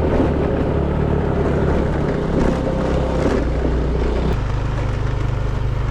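Moped engine running under way on a rough road; its engine note drops about four seconds in as the bike slows.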